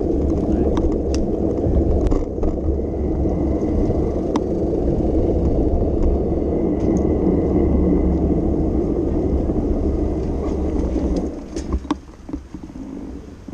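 Steady rumble of wind and road noise on a moving bicycle ride-along recording, with a few light clicks; it drops away sharply near the end.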